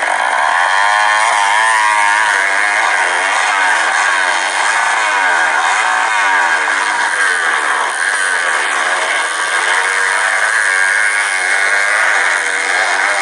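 Several motocross bikes lapping a dirt track together, their engines revving up and dropping back again and again as they shift gears, overlapping one another.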